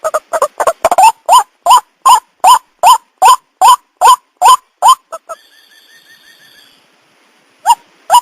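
White-breasted waterhen calling: a quick run of harsh notes, then a steady series of loud rising croaks about two and a half a second. The calls stop about five seconds in, with a faint high trill in the gap, and start again near the end.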